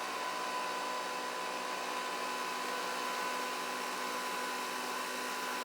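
Nespresso electric milk frother running on its hot setting, its whisk spinning the milk with a steady whir and a thin high hum.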